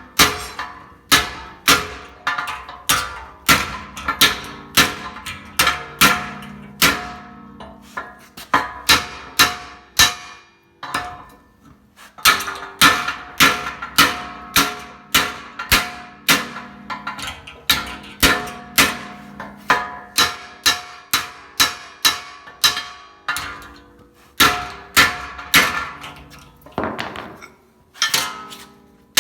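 A hammer striking a sheet-steel patch panel, shaping it: ringing metal blows about two a second, in runs broken by short pauses.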